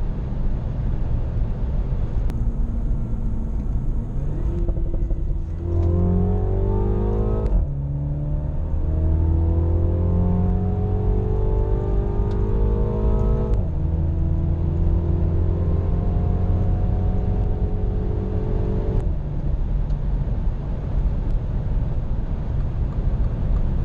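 Mini John Cooper Works Convertible's turbocharged four-cylinder accelerating hard through the gears: the engine note climbs, drops at two upshifts and climbs again, then fades out near the end, leaving heavy wind and road rumble throughout.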